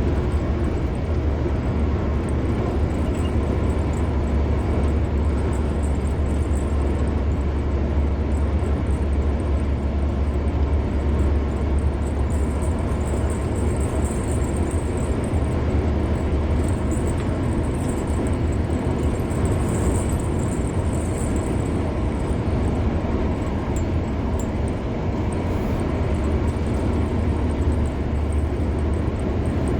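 A car driving on a highway: a steady low rumble of engine and tyre road noise.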